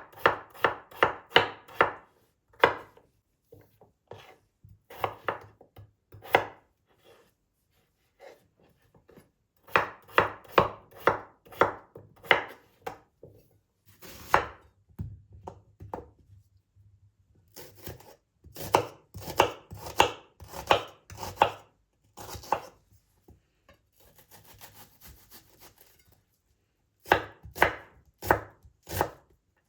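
A knife chopping on a cutting board in quick runs of strokes, about three or four a second, with short pauses between runs. A brief stretch of soft scraping comes about two-thirds of the way through.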